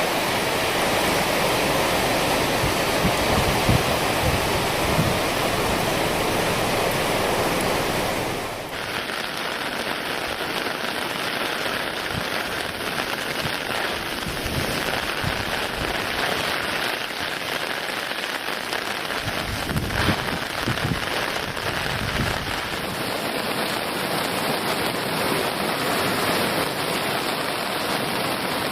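Heavy typhoon rain with rushing water from the flood-swollen river, a dense steady hiss. A low rumble in the first part cuts off abruptly about eight seconds in, where the sound changes at once.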